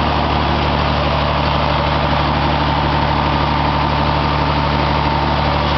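Engine running on 100% biogas at a steady, unchanging speed: a constant low hum under a dense mechanical noise.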